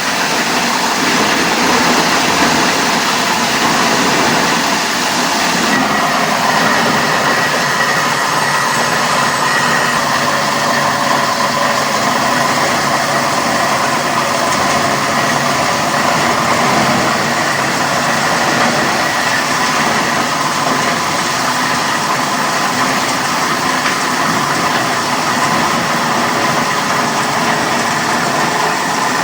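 Industrial machinery in a plastic recycling plant running steadily: a continuous mechanical noise with faint steady whines, changing slightly about six seconds in.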